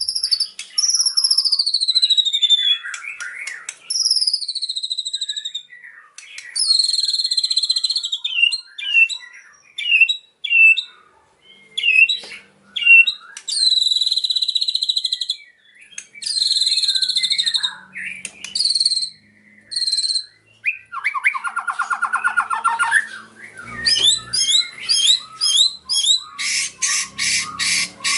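White-rumped shama (murai batu) singing a loud, varied song. It opens with falling whistles, then buzzy and chattering phrases, and ends with a fast run of repeated notes.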